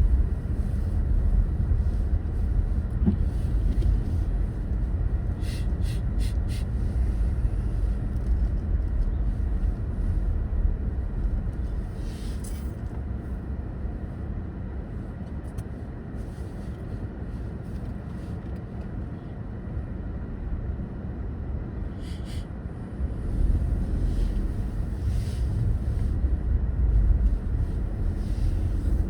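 Car driving on winter roads: a steady low rumble of engine and tyres. It eases off partway through and grows louder again near the end, with a few faint ticks along the way.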